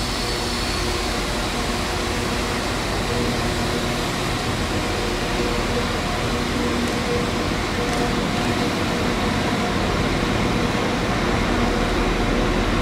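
Steady hum and rumble of a Northern multiple-unit train standing at the platform with its engines or equipment running, echoing under the station's arched roof, growing slightly louder near the end.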